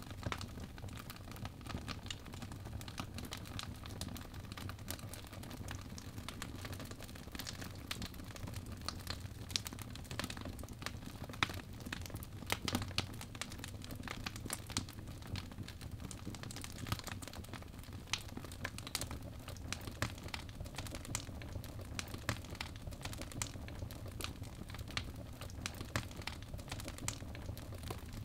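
Birch logs burning in a fireplace: irregular crackles and pops over a steady low rumble of the flames, with a few sharper pops about halfway through.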